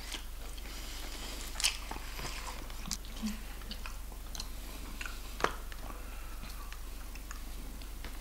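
A person chewing fried chicken close to the microphone, with scattered crunches and clicks; two sharper cracks stand out, about a second and a half in and about five and a half seconds in.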